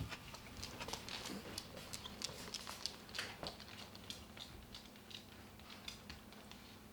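Faint, irregular light clicks and taps, several a second, dying away towards the end.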